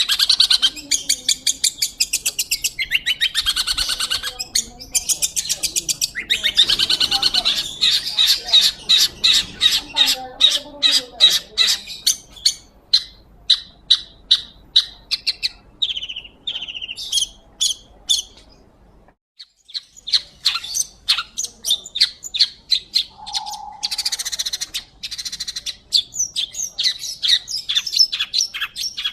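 Long-tailed shrike (pentet) singing hard: long runs of harsh, high-pitched chattering notes repeated several times a second, with a brief pause about two-thirds of the way through.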